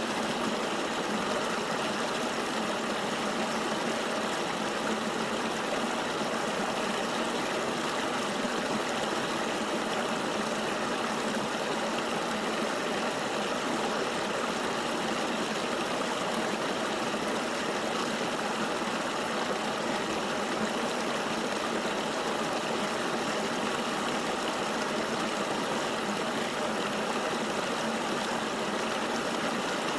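River water flowing, an even, unbroken rushing.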